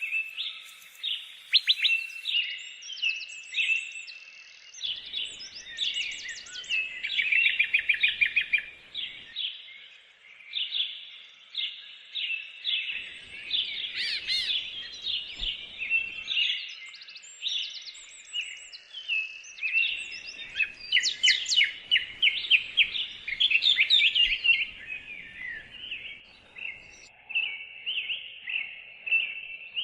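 Small songbirds chirping and trilling in a busy chorus: many quick, high notes overlapping, with short rapid trills scattered throughout.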